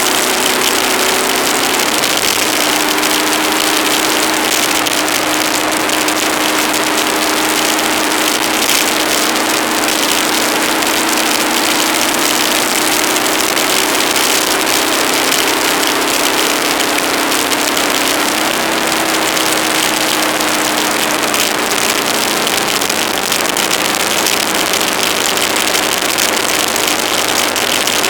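Aprilia ETV1000 Caponord's V-twin engine running under way, its pitch drifting gently up and down, under a heavy, steady hiss of wind and road noise.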